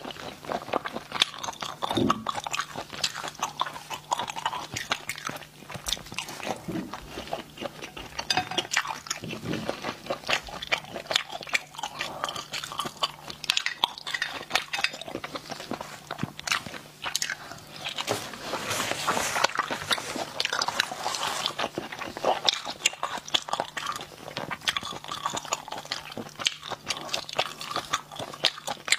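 A person chewing and biting spicy stir-fried snails close to a clip-on microphone, with many quick clicks and crunches throughout, busiest about two-thirds of the way in.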